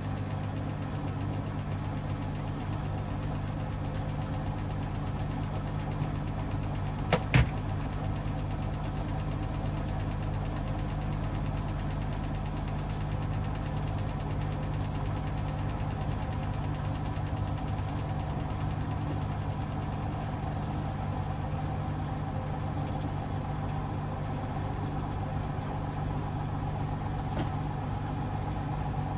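Hoover DXOA610AHFN-80 washing machine running with a steady motor hum, with two sharp clicks close together about seven seconds in.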